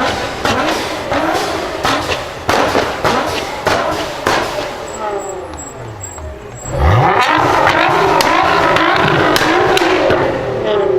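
Nissan GT-R R35's twin-turbo V6 with a rapid string of exhaust pops and cracks, then about seven seconds in the engine revs up sharply and holds at high revs, much louder.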